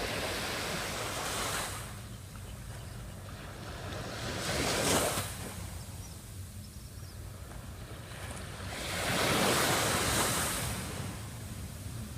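Sea waves breaking on a beach: three surges of surf a few seconds apart, the sharpest about five seconds in, over a steady low rumble.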